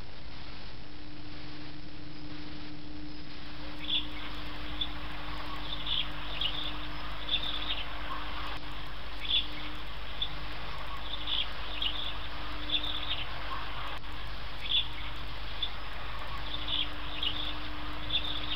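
Short, high bird chirps repeated at uneven intervals, starting about four seconds in, over a steady low hum.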